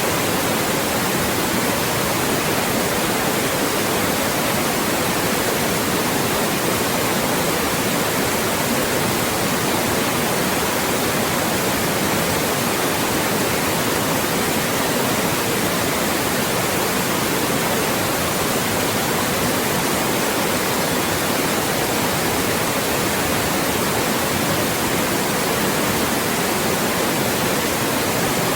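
Loud, steady white noise: an even, unchanging hiss across the whole range, with no tones or breaks.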